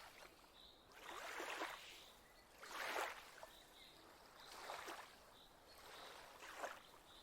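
Faint water lapping gently, in soft swells that come and go about every two seconds.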